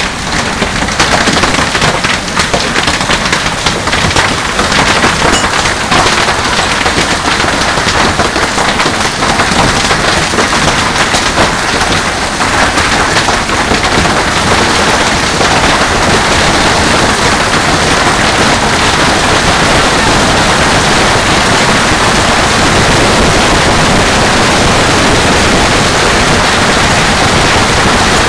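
Heavy hailstorm: a dense, loud clatter of hailstones striking hard surfaces. Many sharp individual impacts stand out in the first half, then it settles into a steadier din.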